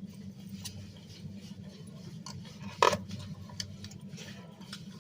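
Someone eating a crispy spring roll: faint crunches and small clicks from handling the food, with one sharper click about three seconds in, over a steady low hum.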